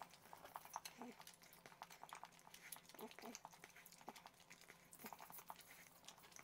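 Faint chewing of a sticky, gummy black licorice candy: soft irregular mouth clicks and smacks as the candy clings to the teeth.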